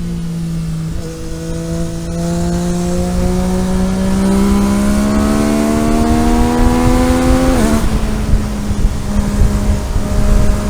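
Car engine pulling up through the revs for about six seconds, then the revs drop sharply, as at a gear change or lift-off, and hold steady. Road and tyre rumble runs underneath.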